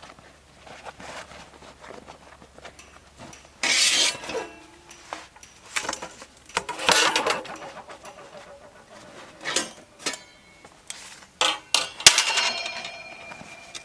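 Camp gear being handled: rustling, knocks and small metal clinks, with a sharp metallic clank near the end that rings on briefly.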